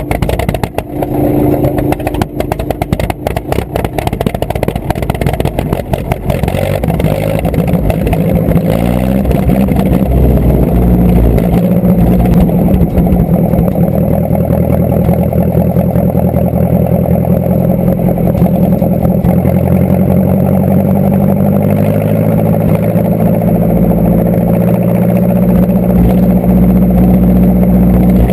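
Tractor engine running, choppy and uneven for the first few seconds, then revving up and holding at a steady, loud pitch as it works under load.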